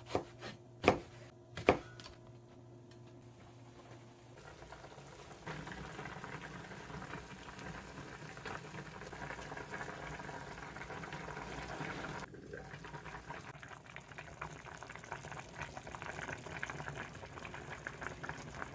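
Three or four sharp knocks in the first two seconds, then ketchup-based soup simmering in a pot: a steady bubbling that dips briefly about twelve seconds in.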